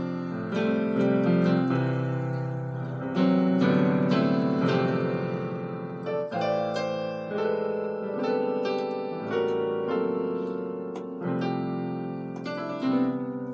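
Piano-sound keyboard playing a gospel-style harmonisation of a hymn melody: full chords struck and held, moving through passing chords every second or so.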